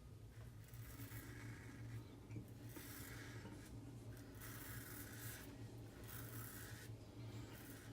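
Double-edge safety razor scraping through stubble on a pass against the grain: a series of short faint rasping strokes with brief pauses between them, over a steady low hum.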